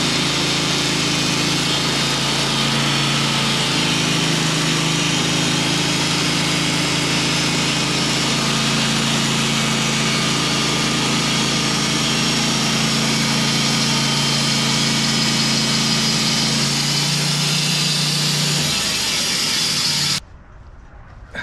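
Sawmill's engine running steadily under load while the blade saws through an oak log, with a steady hiss from the cut. The engine note drops near the end and the sound stops abruptly.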